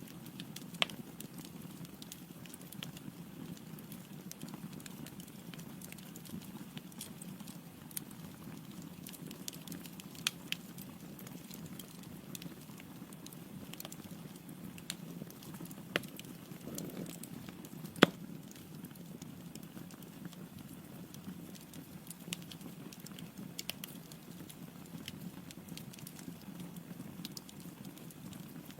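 Wood fire burning in a fireplace: a steady low rush of flames with irregular crackles and sharp pops from the burning logs, the loudest pop about 18 seconds in.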